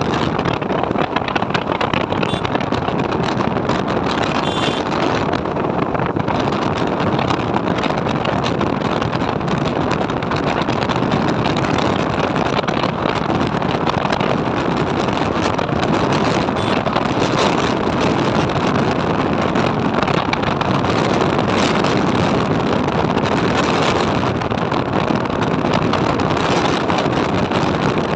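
Steady rush of wind on the microphone over a motorcycle running at riding speed, with no breaks or changes.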